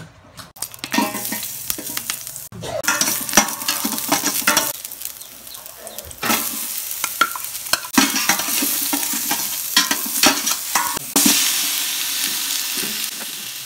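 Chopped vegetables and onion frying in hot oil in a stainless-steel pot, sizzling, while a utensil stirs and scrapes against the metal with many short clatters. The sizzle grows louder near the end as sliced chicken goes into the pot.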